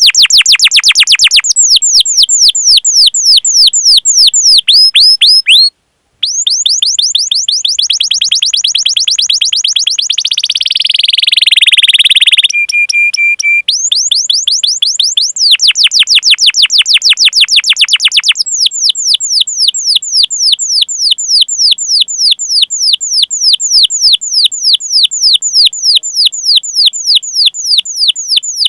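Domestic canary singing long runs of rapid 'cuit cuit' chirps, each a fast downward-sweeping note, several a second. The runs come in phrases, with a short break about six seconds in and a brief steady whistled note near the middle.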